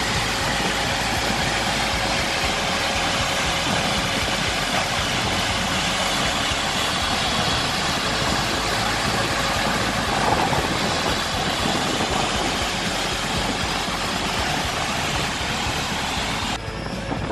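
Steady drone of running machinery with a constant hum through it, cutting off suddenly near the end.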